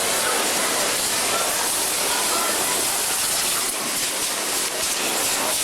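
A loud, steady hissing rush of noise, with a few sharp crackles in the second half.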